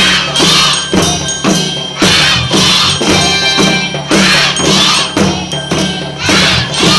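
Kindergarten marching band playing a march, with a steady percussion beat about twice a second under a melody.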